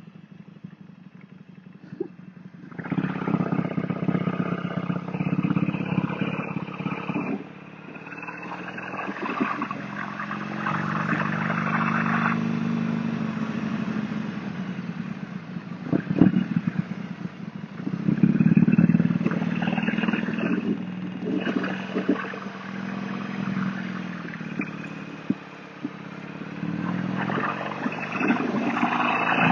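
Motorcycle engine heard from the rider's position, low for the first few seconds and then pulling away. Its pitch climbs and drops several times as it accelerates and shifts through the gears.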